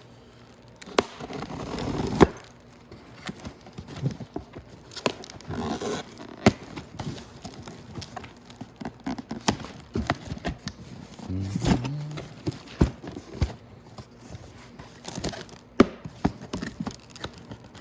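A screwdriver stabbing and prying at a taped cardboard box: irregular sharp knocks and clicks with short stretches of scraping and cardboard tearing.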